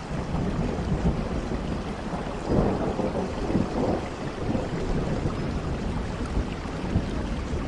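Steady rain with a long roll of thunder rumbling underneath, swelling louder about two and a half seconds in.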